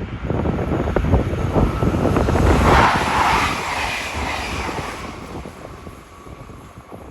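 Train passing through the station at speed: a low rumble and a rushing hiss build to a peak about three seconds in, then fade as the train moves away.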